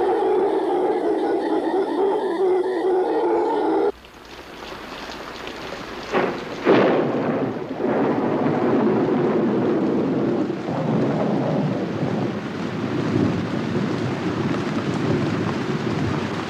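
A steady pitched sound cuts off abruptly about four seconds in, giving way to tropical rain. Two sharp claps of thunder come a couple of seconds later, and heavy rain continues steadily after them.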